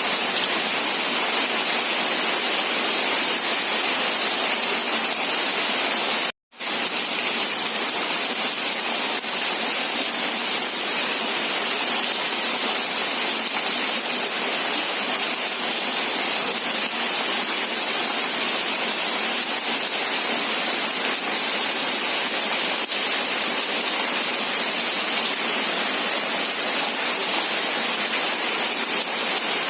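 Steady rain falling, an even hiss with no single drops standing out. About six seconds in it cuts out completely for an instant and comes straight back.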